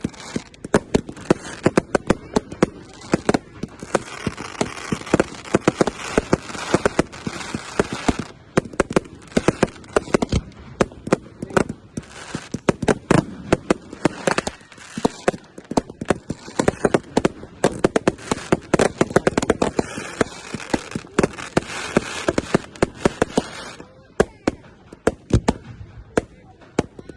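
Fireworks going off in a rapid barrage: many sharp bangs over a hissing crackle, thinning to scattered bangs near the end.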